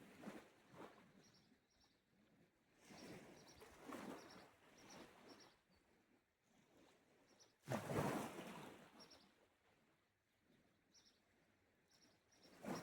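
Small sea waves washing onto the shore in slow surges, four in all, the loudest breaking suddenly about eight seconds in. Faint short bird chirps come now and then between them.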